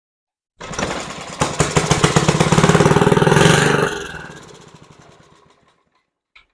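Small single-cylinder mower engine of a 1950s Sears reel mower catching suddenly, firing rapidly and picking up for about three seconds, then slowing and dying out over the next two seconds.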